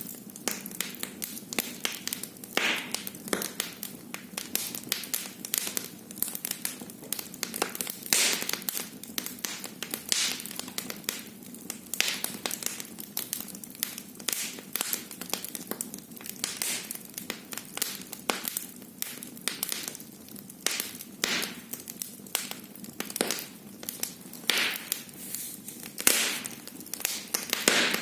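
Wood fire burning in a fireplace, crackling and popping in many irregular sharp snaps over a soft, steady rush of flame.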